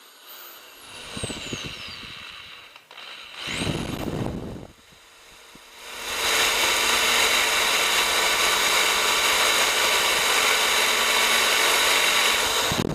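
Power drill with a cobalt bit drilling into the very hard metal of a mud motor exhaust pipe. A short rising spin-up comes about three and a half seconds in, then steady drilling from about six seconds that stops at the end, the whine falling away as the motor spins down.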